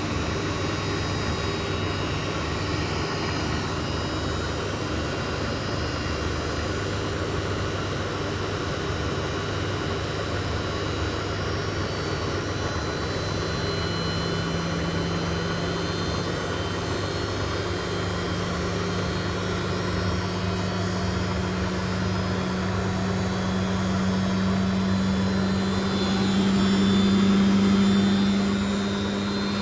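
Indesit washing machine on its spin cycle, running with a steady motor and drum hum. About halfway through a whine joins in and rises slowly in pitch, getting a little louder near the end, as the drum speeds up toward its 1000 rpm spin.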